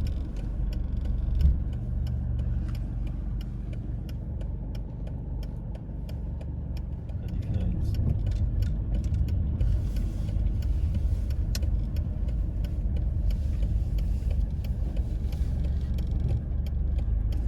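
Car running along a city street, heard from inside the cabin: a steady low rumble of engine and tyres, with scattered small clicks and rattles.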